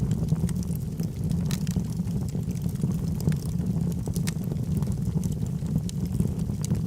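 Logs burning in a fireplace: a steady low rush of flame with scattered sharp crackles and pops at irregular moments.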